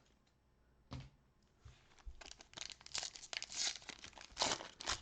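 Trading-card pack wrapper being torn open and crinkled by hand: a single knock about a second in, then continuous crackling tear and crinkle that grows louder toward the end.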